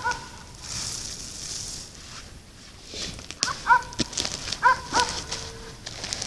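Short, clear bird calls, one at the start and then two pairs about three and a half to five seconds in, over scattered clicks and rustling.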